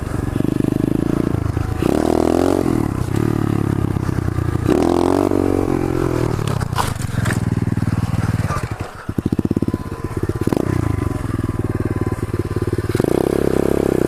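Pit bike engine revving in repeated bursts, with a few sharp knocks about halfway through and a brief drop in the engine a couple of seconds later: the bike going down in a wheelie crash.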